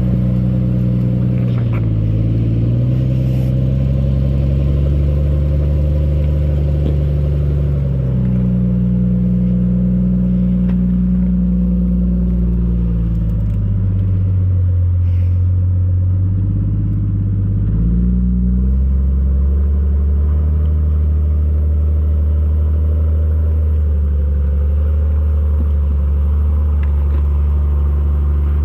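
Jeep Cherokee XJ's engine running at low speed while rock crawling, its pitch rising and falling with the throttle: it drops for a few seconds around the middle, then picks up again.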